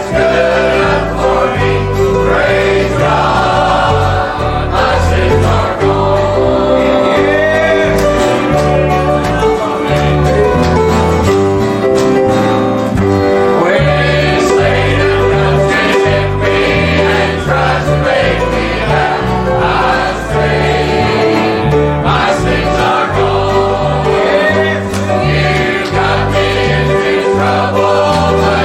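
A choir singing a gospel hymn with instrumental accompaniment and a steady beat.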